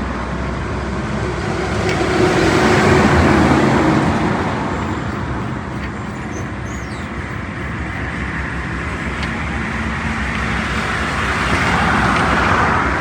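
Road traffic going by on a highway, with passing vehicles loudest about three seconds in and again near the end, over a steady low engine hum.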